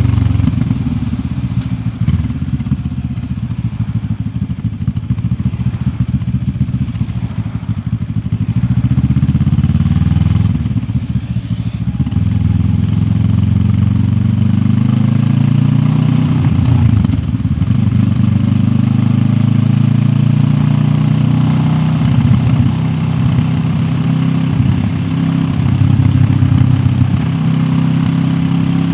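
QJ Motor SRT 700X motorcycle's parallel-twin engine under way, its pitch climbing and dropping several times as the rider accelerates and eases off or shifts, over a steady rush of wind.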